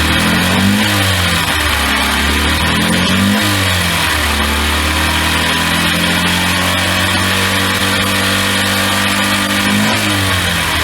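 Honda Little Cub's 49 cc air-cooled single-cylinder four-stroke engine running, revved up and back down briefly several times, with a steady stretch in the middle.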